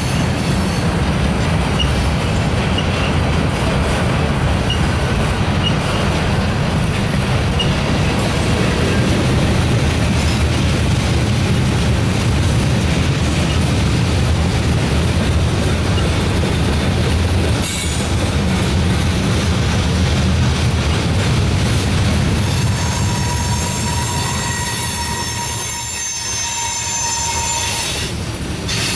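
Freight cars rolling past at close range: a continuous rumble of steel wheels on rail with clickety-clack. In the last several seconds a high, steady squeal from the wheels rises over the rumble.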